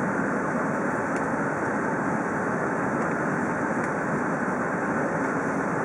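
Steady rushing roar of an Airbus A380's jet engines and airflow, heard inside the passenger cabin. It holds even, with no rise or fall.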